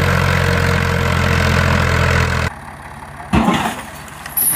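Tractor engine running steadily, cutting off abruptly about two and a half seconds in. A quieter stretch follows, broken by two brief louder low sounds.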